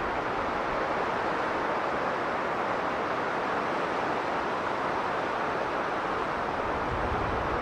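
Strong blizzard wind blowing steadily, an even rushing hiss, with a brief low rumble of a gust near the end.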